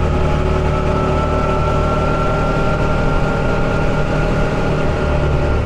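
Buggy engine running steadily on the road, a low rumble with a thin steady whine above it.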